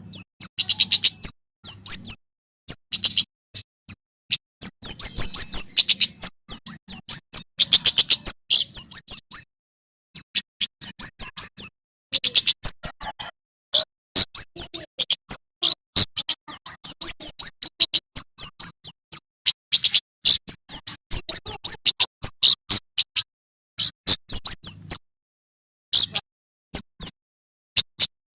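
A male prenjak keres (kemade jawa) singing loudly: rapid strings of sharp, high chirping notes in bursts, with brief pauses between phrases.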